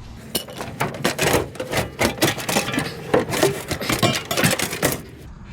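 Pieces of scrap metal clinking and clattering over and over as they are handled and tossed onto a pile.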